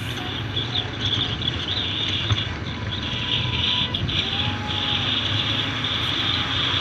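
Motorcycle riding along at steady speed: a continuous engine drone with road and wind noise.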